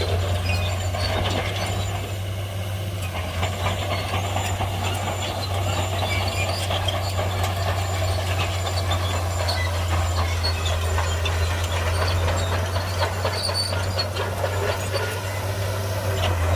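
Shantui crawler bulldozer working, its diesel engine running steadily under load with a low drone, while its steel tracks clatter and clink.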